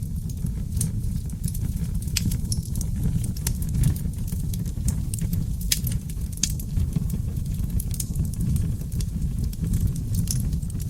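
Wood fire burning in a fireplace: a steady low rumble of flame with frequent, irregular crackles and sharp pops from the burning logs.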